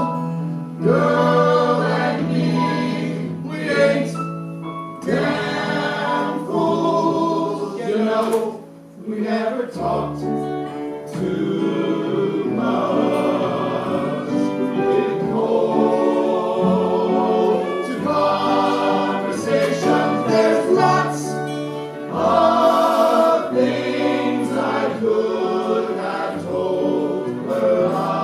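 A choir of voices singing in harmony over an instrumental accompaniment: a song.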